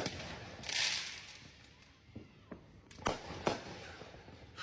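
Fireworks exploding: a bang at the start, a hiss about a second in, then two sharp bangs about half a second apart around three seconds in.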